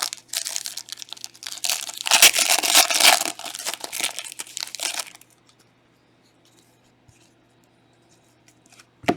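Foil trading-card pack wrapper being torn open and crinkled for about five seconds, loudest around two to three seconds in. A single sharp click comes near the end.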